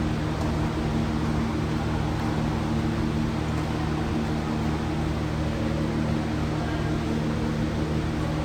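Engine drone held at a steady pitch, with no rise or fall in speed.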